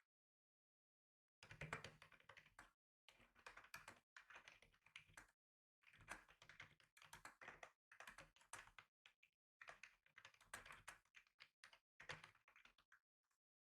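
Faint typing on a computer keyboard: quick runs of key clicks in bursts of one to two seconds, with short silent pauses between them.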